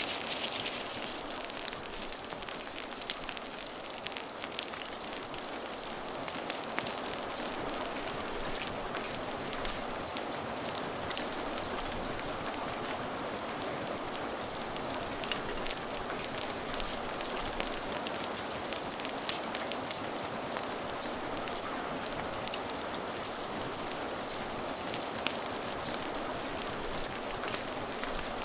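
Steady rain falling together with a crackling fire: an even hiss of rain with many small pops and ticks scattered through it.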